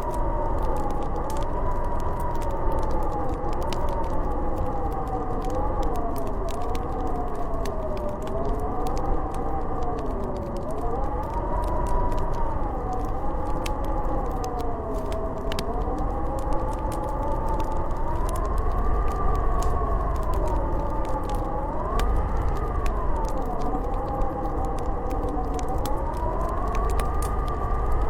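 Howling blizzard wind: a moaning whistle that slowly rises and falls in pitch over a deep rumble. Scattered small crackles of a wood fire sound throughout.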